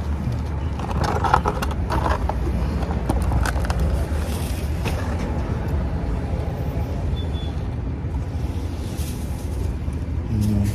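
Steady low rumble of a vehicle or traffic, with a few light knocks and clatters in the first half as the oil bottles are moved aside.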